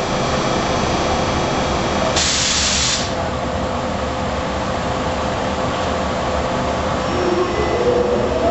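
EH500 electric freight locomotive standing with its cooling blowers running steadily, a short hiss of air about two seconds in. Near the end, a rising whine from the inverter and traction motors sets in as the locomotive starts to pull away.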